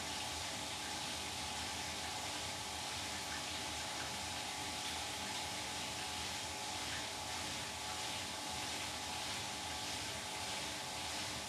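Beko WTK104121W washing machine running a delicates cycle: a steady whirring hum with a layer of hiss, even throughout.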